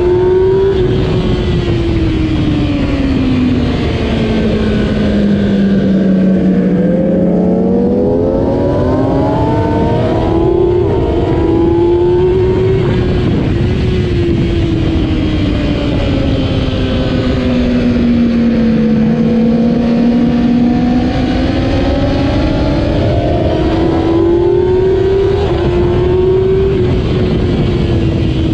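2008 Kawasaki ZX-10R's 998 cc inline-four engine at racing speed. The revs sink slowly twice, then climb again in quick steps as it is shifted up through the gears, over a steady rush of noise.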